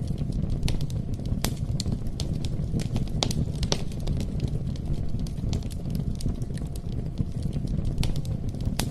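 Campfire crackling: scattered sharp pops and snaps over a low, steady rumble.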